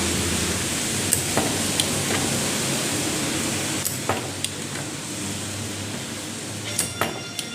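Steady hiss of a hot-air rework gun blowing onto a circuit board to desolder or resolder the induction cooker's power-supply IC. A handful of light, sharp clicks of metal tools on the board are scattered through it.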